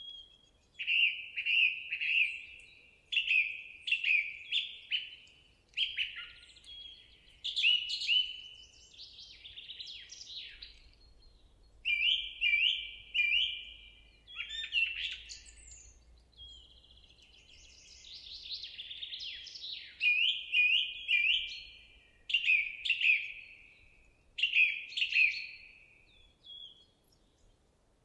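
Songbirds singing, a run of quick chirping phrases of short repeated notes with brief pauses between them.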